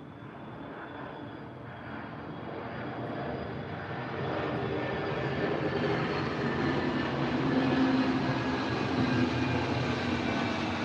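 Engine drone of a passing aircraft, growing steadily louder for about eight seconds and easing slightly near the end.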